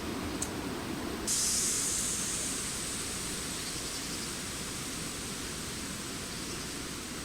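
Steady noisy hiss with no birdsong. It turns suddenly brighter and louder about a second in, then slowly eases, with a faint click just before.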